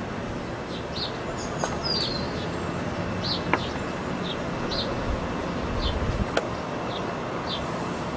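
Small birds chirping, short high notes repeated every half second to a second, over a steady low background rumble.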